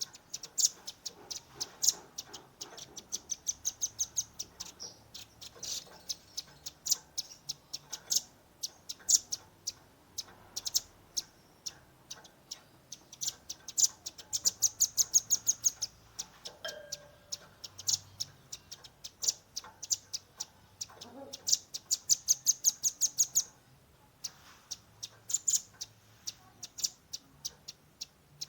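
Velvet-fronted nuthatch calling in fast, rapid-fire runs of sharp high chips and trills, with brief pauses between the runs.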